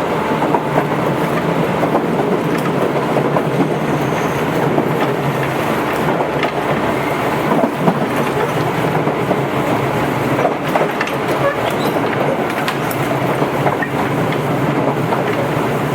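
Tobu 8000 series electric train running at speed: a steady rolling rumble with the wheels clicking over rail joints now and then.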